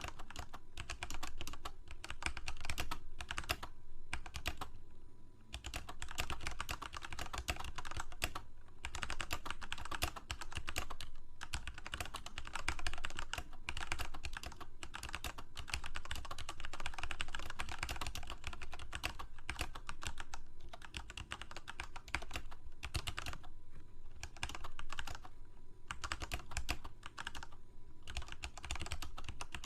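Continuous typing on a computer keyboard: rapid runs of key clicks with short pauses between bursts.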